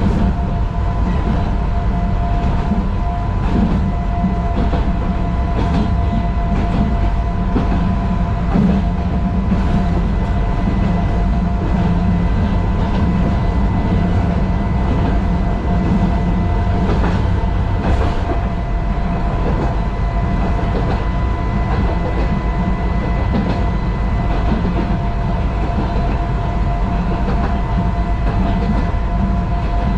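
Small 762 mm narrow-gauge electric train running at a steady speed, heard from the driver's cab. A constant rumble carries occasional clicks from the wheels over the rails, with a steady whine on top.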